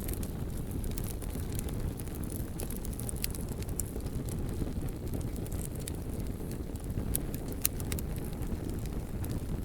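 Bonfire burning: a steady low rumble of flames with scattered sharp crackles and pops from the burning logs.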